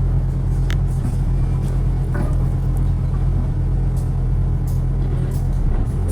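Steady low rumble of a motor vehicle in city traffic, engine and road noise, with a few faint clicks scattered through it.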